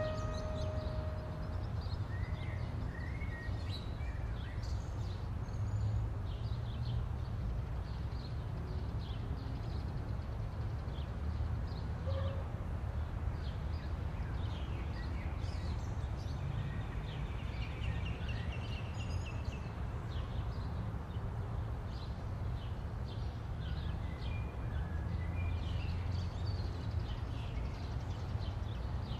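Outdoor ambience: a steady low rumble with scattered short bird chirps and calls throughout.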